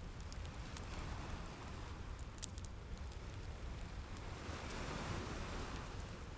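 Ocean waves washing in and out over a steady low rumble, with a wood fire crackling in scattered sharp pops. A wave swells up about a second in, and another surges near the end.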